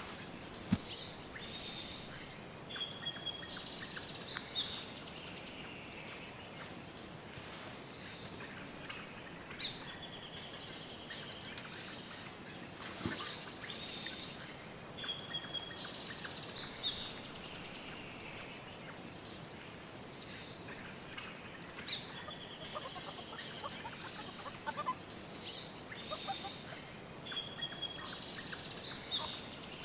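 Songbirds singing outdoors: short, high, chirping phrases every second or two over a steady hiss of background noise.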